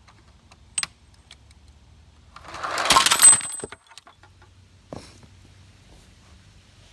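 A weighted-down RC truck slams into a toy Ferrari: about a second of clattering and crunching of plastic and metal parts, building up and cutting off sharply, with a few small clicks before and after.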